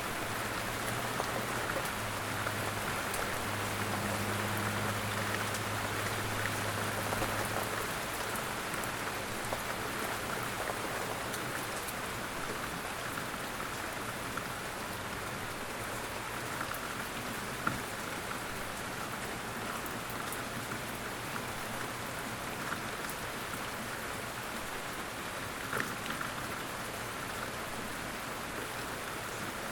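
Light rain falling steadily in woodland, with scattered drops ticking and a few louder single drips. A faint low hum runs under it for the first several seconds.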